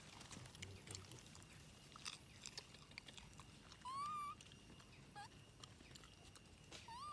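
Quiet animal calls: one clear, high call that rises then falls, lasting about half a second, about four seconds in, followed by a short falling call a second later and another near the end. Faint scattered clicks sound over a near-silent background.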